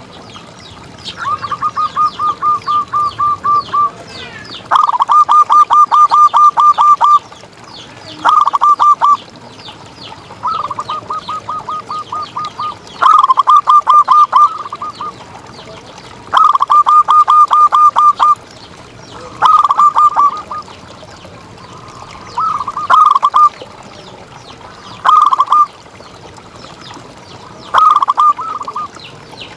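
Zebra dove (perkutut) cooing: about ten phrases of rapid, evenly pulsed notes, several a second, each phrase one to three seconds long, with short pauses between. Fainter, higher chirps run behind them.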